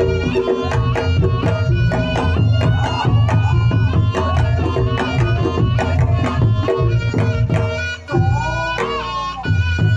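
Reog Ponorogo gamelan ensemble playing the traditional jathilan accompaniment: busy kendang hand-drumming with gong-chime strokes under a slompret (shawm) melody, with a short drop in the drumming about eight seconds in.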